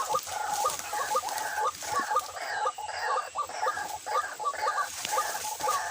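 White-breasted waterhen (ruak-ruak) calling: a fast, even series of repeated croaking calls, about three a second.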